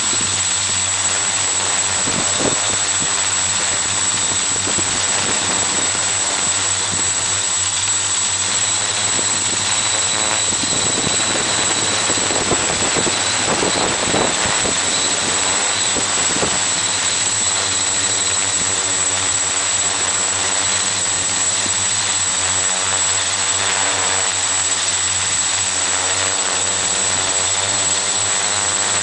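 Xaircraft X650 quadcopter's four electric motors and propellers running steadily in flight, heard through the camera on the craft's own mount: a dense propeller noise with a steady high whine, its pitch wavering a little as the motors adjust.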